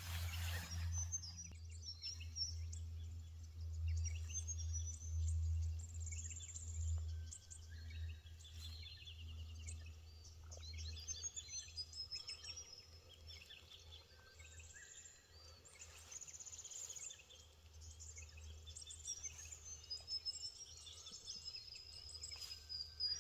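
Several birds chirping and calling, with short chirps throughout and a long thin whistle near the end. Under them, a low rumble that fades out about halfway through.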